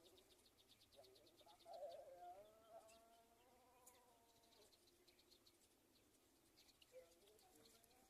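Faint outdoor ambience: an insect trilling in rapid pulses, about ten a second, with faint wavering animal calls from about a second in to halfway, and again near the end.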